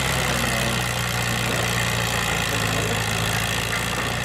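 Farm tractor engine running steadily at an even, low pitch, with a steady hiss over it.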